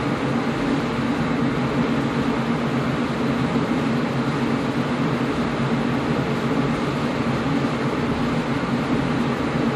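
Air conditioner running steadily: an even rushing noise with a constant low hum.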